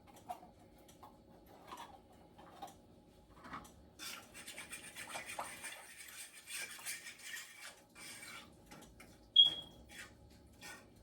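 Kitchen utensil noises: scattered light clicks, then about four seconds of scraping and rubbing, and a sharp metallic clink about nine seconds in, the loudest sound.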